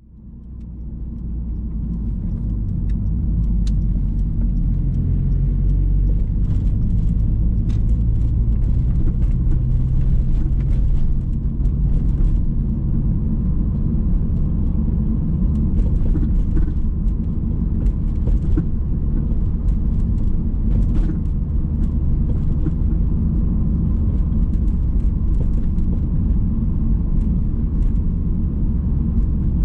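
Inside a moving Subaru Legacy BP5: steady road and drivetrain rumble, fading in over the first few seconds, with scattered short knocks and clunks that come in clusters. The knocking comes from the left rear suspension, which the owner puts down to a worn-out rear stabilizer bar bushing.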